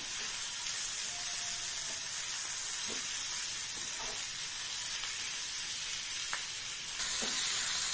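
Onion-tomato masala sizzling in oil in a non-stick kadai while it is stirred with a wooden spatula, with a few light spatula strokes against the pan; the sizzle grows a little louder near the end.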